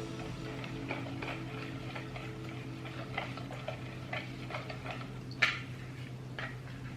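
A whisk clicking and tapping against a mixing bowl as wet cake batter is stirred, in irregular taps about one or two a second. There is one sharper knock about five and a half seconds in, over a steady low hum.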